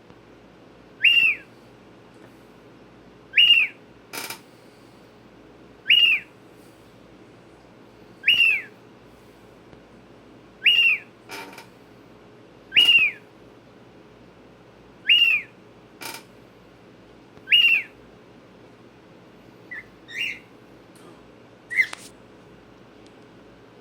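Cockatiel calling: a short whistled call that arches up and falls, repeated evenly about every two and a half seconds, then a few shorter, irregular calls near the end. Faint clicks fall between some of the calls.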